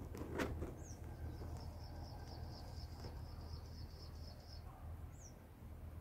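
Faint small-bird sounds at a nest: two short high chirps sliding down in pitch, and a steady high pulsed trill lasting about three seconds. A sharp click comes about half a second in, and a low steady hum runs underneath.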